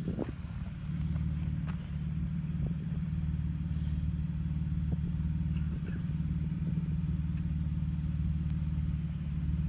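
Off-road vehicle's engine running steadily under way, a low even drone, with scattered light clicks and rattles over it.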